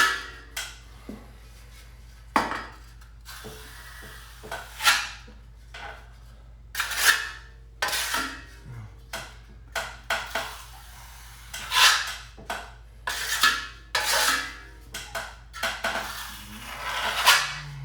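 Steel drywall knife scraping and feathering joint compound over a patch, a series of short swipes about once a second with uneven gaps.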